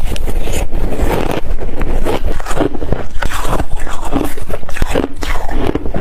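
Close-miked crunching and chewing of crunchy ice, a dense run of irregular cracks and crackles as the pieces break between the teeth.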